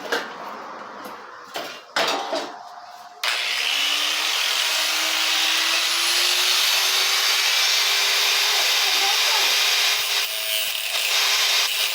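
A few knocks and clicks, then about three seconds in an electric power tool starts. Its motor tone rises briefly as it spins up and then holds steady under a loud, hissing grind as it cuts into the work.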